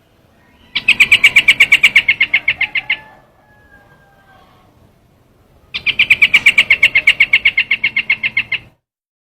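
A trao trảo bird calling in two loud bursts of fast, evenly repeated chattering notes, each lasting about two to three seconds, with a pause between them.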